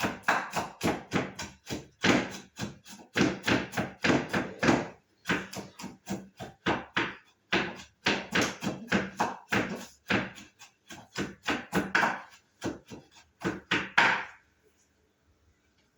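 Knife chopping on a wooden cutting board, quick steady strokes at about three or four a second that stop near the end.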